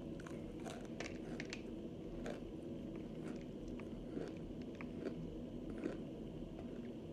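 Chewing and crunching on chunks of dried cornstarch-and-water, with a quick run of sharp crackling crunches in the first second and a half, then scattered crunches as the chewing goes on.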